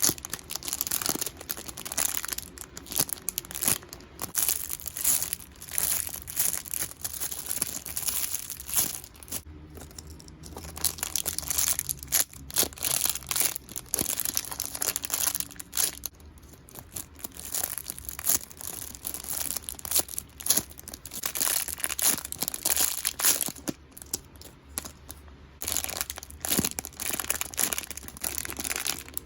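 Plastic squishy packaging bags crinkling and crackling as they are handled, in irregular bursts with short pauses.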